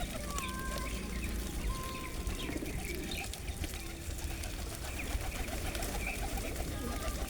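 Pigeons cooing at a feeding spot, with short whistled chirps from other birds, over a steady low rumble.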